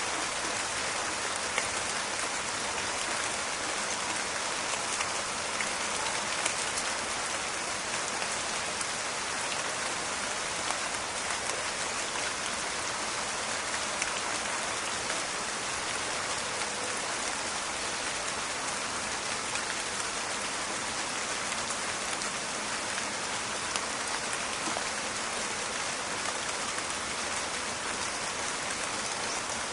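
Steady rain: a dense, even hiss of falling drops with many small crackling taps scattered through it.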